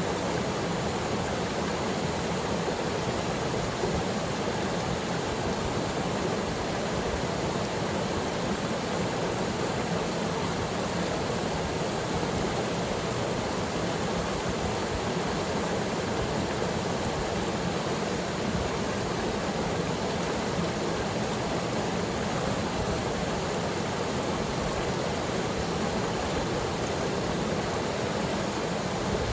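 Waterfall pouring into the water below: a steady, even rush of falling water with no breaks.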